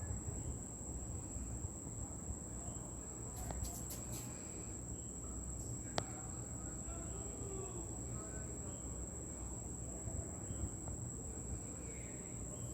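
Insects trilling in one steady, unbroken high-pitched tone, over a low background rumble, with a single sharp click about six seconds in.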